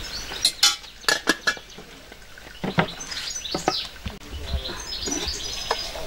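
Kitchenware clinking and knocking a few times in the first second and a half, with birds chirping.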